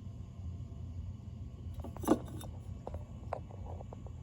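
Low handling sounds: a sharp click about two seconds in and a few faint ticks later, over a steady low hum.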